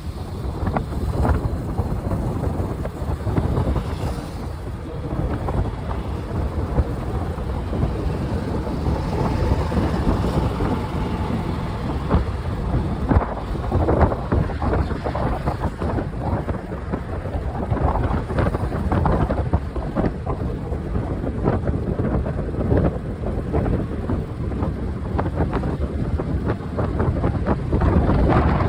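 Wind buffeting the microphone of a moving bike, heavy and gusty, over a steady rush of riding noise.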